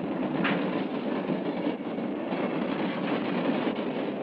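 A New York Central freight train rolling past close by: a steady rumble and rattle of wheels on the rails, with two sharper clacks, about half a second in and just before two seconds in.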